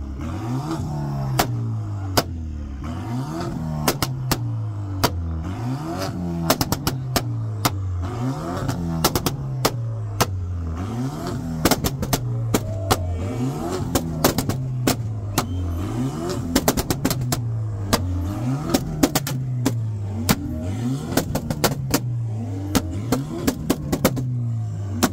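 BMW sedan's engine being revved over and over, its note rising and falling back about once every one and a half seconds, with many sharp cracks between the revs.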